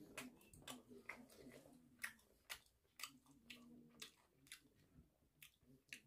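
A person chewing food close to the microphone, with sharp wet mouth clicks about every half second.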